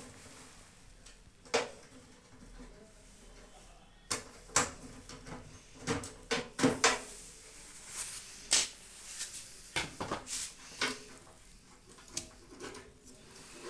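Irregular clicks, knocks and light clatter of metal and plastic microwave oven parts being handled and pulled apart during disassembly, busiest in the second half.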